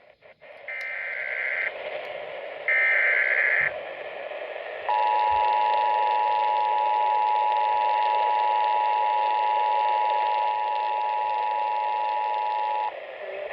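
Emergency Alert System signalling over a weather radio broadcast with steady hiss: two roughly one-second bursts of warbling SAME header data, then the steady two-tone EAS attention signal for about eight seconds. These tones mark the start of an emergency alert, here a severe thunderstorm warning.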